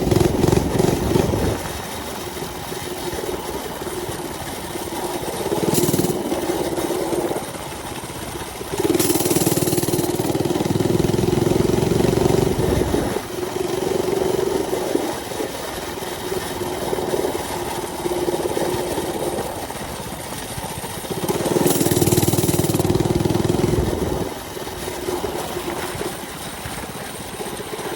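Mini bike's small engine running under way as it is ridden, with a steady drone that swells louder with a rushing noise three times: at the start, around nine to thirteen seconds in, and around twenty-two seconds in.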